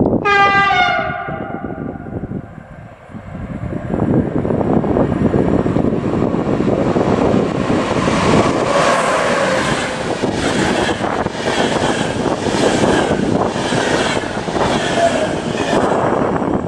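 An electric train's horn sounds once, briefly, at the start, dropping slightly in pitch. The train then passes at speed: a loud rush of wheels on rail, with a regular clatter of wheelsets over the rail joints about one and a half times a second, tailing off near the end.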